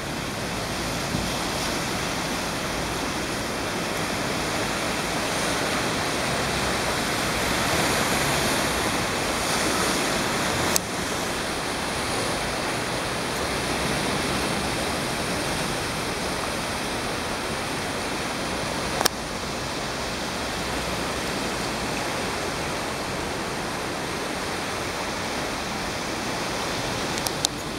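Torrential rain and floodwater making a steady, loud rushing, broken by a few brief clicks: one about 11 seconds in, one about 19 seconds in and one near the end.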